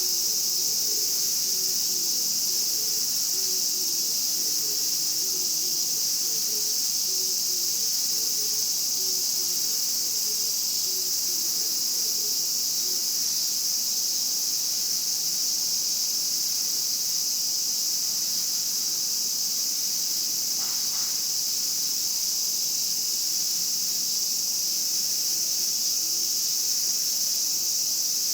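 Chorus of Japanese cicadas buzzing in a steady, unbroken high drone. Faint low calls come and go underneath during the first half.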